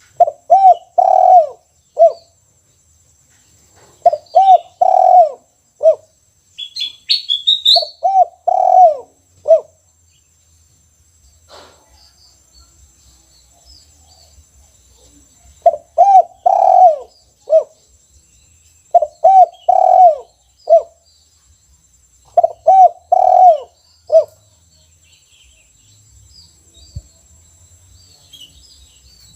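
Spotted dove (tekukur) cooing: six phrases of several quick rising-and-falling coos, each closed by a single short 'kuk' note, the one-kuk song type. Pauses of several seconds fall between some phrases, and a brief high chirp from a small bird comes about seven seconds in.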